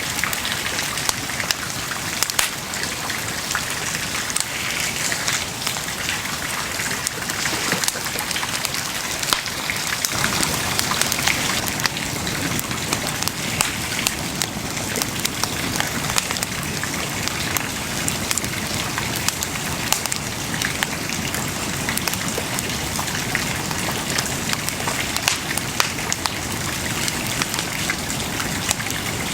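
Wood bonfire burning, a steady hiss with frequent sharp crackles and pops; a low rushing sound grows a little louder about ten seconds in.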